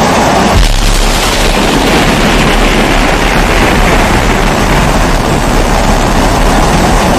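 Pressurised kerosene (primus-type) stove burner burning with a loud, steady hiss over a low rumble; the rumble deepens about half a second in.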